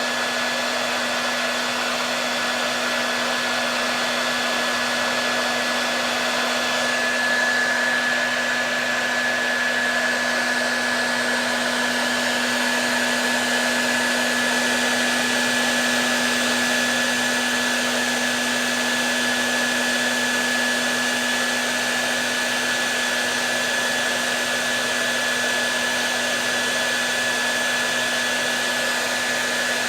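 Hair dryer running continuously: a steady rush of blowing air with a low motor hum and a thin high whine.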